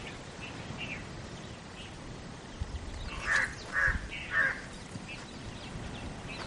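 A bird gives three calls about half a second apart, a little after three seconds in. Faint short chirps of smaller birds sound throughout.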